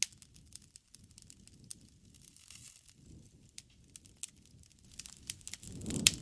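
Wood bonfire crackling, with irregular sharp pops and snaps, one loud pop right at the start, over a low rush of burning that swells near the end.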